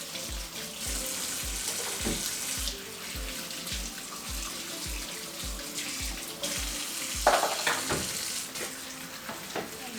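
Tap water running as bottles are rinsed under it. Background music with a steady beat plays and stops about seven seconds in, and a short, louder sound comes at the same moment.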